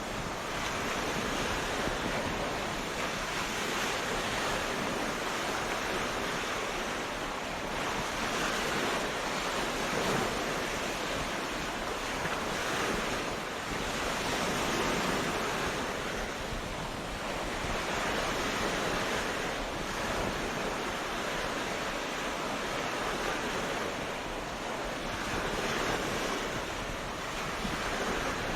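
Sea waves breaking and washing on a beach, a steady surf that swells and eases every few seconds, with wind in the microphone.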